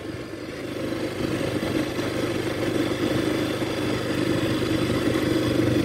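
Small motorcycle engine running steadily under way, getting a little louder over the first couple of seconds and then holding an even note.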